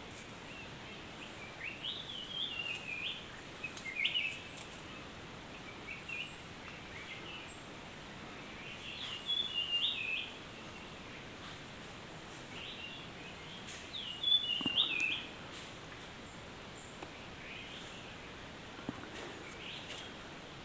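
A songbird singing short phrases of quick, jumpy notes, repeated every few seconds over steady background noise.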